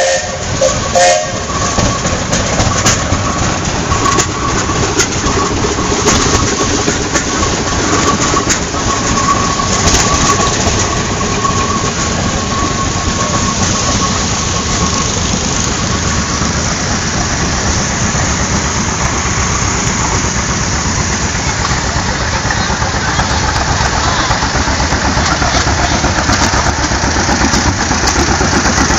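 Antique tractor engines running steadily. A faint held whistle-like tone sounds over them through the first half.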